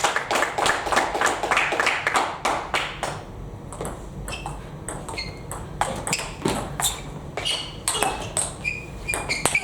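Table tennis balls striking bats and the table: sharp clicks, each with a short high ping. A dense patter of clicks fills the first three seconds, then sparser single clicks follow.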